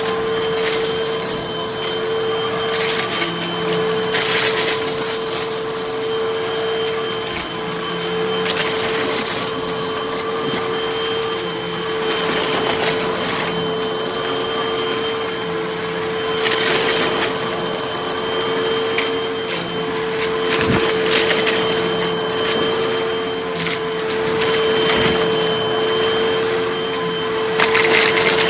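Hoover vacuum cleaner running with a steady motor whine, sucking up small crunchy debris that crackles through it in bursts every few seconds.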